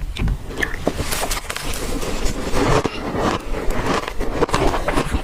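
Ice being bitten and chewed close to the microphone: a dense, irregular run of crunches and crackles.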